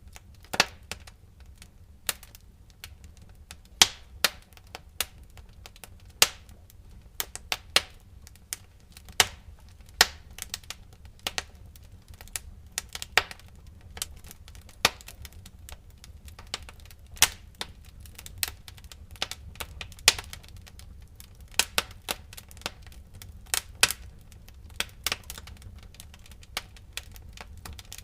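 Wood fire burning in a fireplace, crackling with irregular sharp snaps and pops, several a second, over a low steady rumble.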